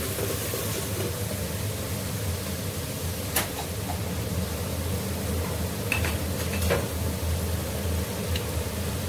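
Onion-tomato masala sizzling steadily in an aluminium pot over a low, even hum, with a few sharp clicks of the metal spoon against the pot.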